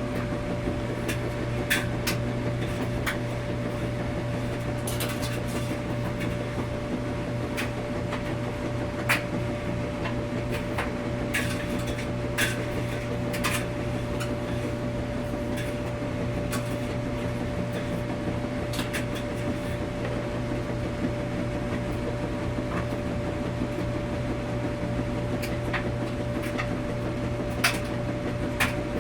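Washing machine running in a laundromat with a steady hum, with irregular light clicks and knocks every second or two.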